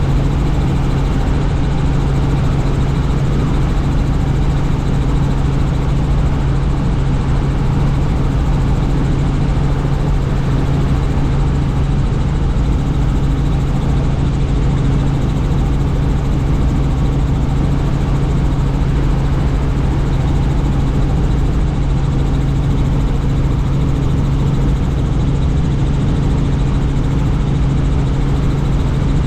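Helicopter in flight heard from on board: a steady, unchanging drone of rotor and engine, with a strong low hum under an even rush of noise.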